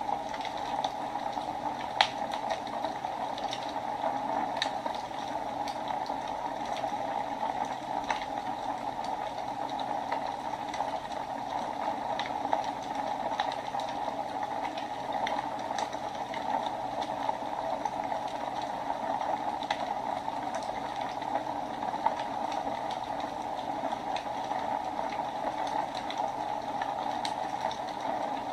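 Wood fire burning in a fireplace: a steady hiss of flames with irregular crackles and pops, one sharper pop about two seconds in and another about twenty-two seconds in.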